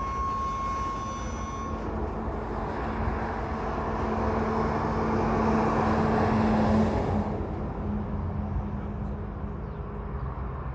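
Norfolk Southern freight train rolling past, with a dense rumble of wheels on rail. A high, steady wheel squeal stops about two seconds in. The rumble then builds, and eases off after about seven seconds.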